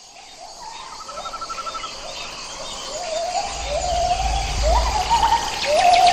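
A bird calling over and over in short upward-swooping notes, fading in from silence, with a brief fast trill from another bird about a second in. A low rumble of wind on the microphone comes in the middle.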